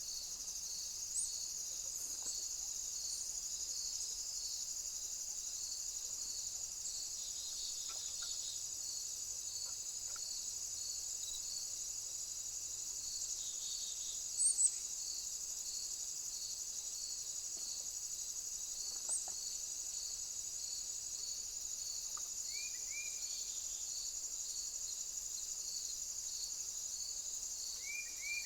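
Steady, high-pitched chorus of summer insects, with a faint regular pulse under it. A few brief bird chirps stand out, one about a second in, a louder pair around the middle, and two more near the end.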